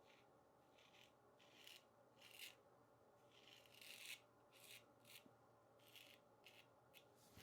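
Weck Sextoblade replaceable-blade straight razor with a fresh Kismet blade cutting through lathered stubble. It makes about ten short, faint strokes at uneven intervals.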